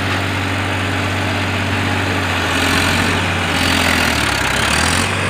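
Massey tractor engine running steadily at idle, getting a little louder about halfway through.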